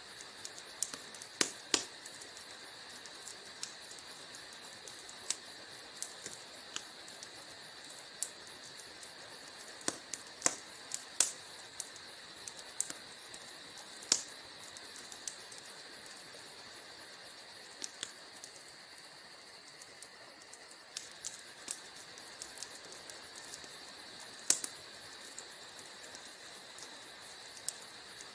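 Wood fire burning in a fireplace: irregular sharp pops and snaps from the burning logs over a steady hiss.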